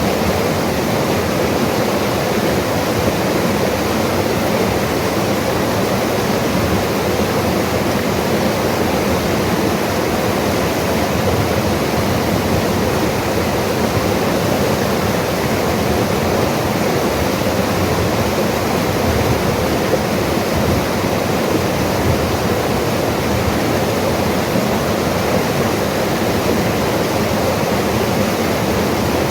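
Mountain river water rushing in a steady, even roar of noise with no breaks.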